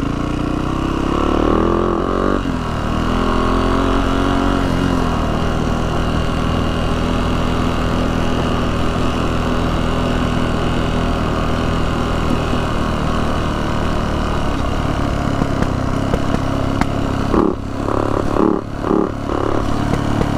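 Yamaha YZ450F single-cylinder four-stroke dirt bike engine running under way. Its pitch rises and falls in the first few seconds, then it holds steady. In the last few seconds it stutters and cuts in and out, the sign of the fuel tank running dry.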